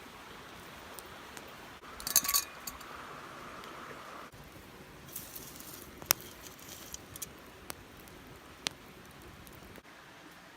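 Small hard objects clinking and clicking: a quick cluster of metallic clinks with a brief ring about two seconds in, then a few scattered single clicks.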